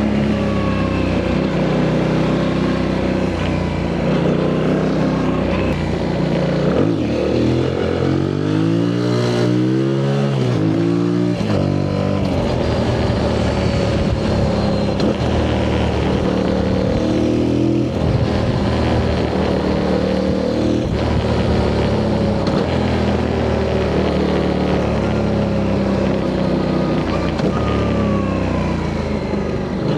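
Yamaha MT-07's CP2 parallel-twin engine through its stock exhaust, riding under load, with the revs climbing and dropping several times in quick succession about 7 to 12 seconds in, and again briefly near the end.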